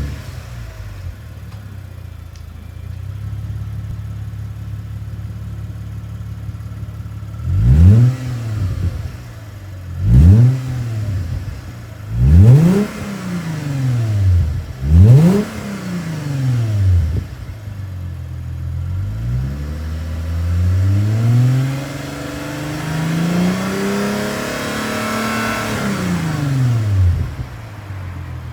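Toyota 200-series Crown's V6 engine, heard through an exhaust fitted with a silencer box. It idles steadily, then is blipped four times in quick, sharp revs that rise and fall. It is then revved more slowly and held higher for several seconds before dropping back to idle near the end.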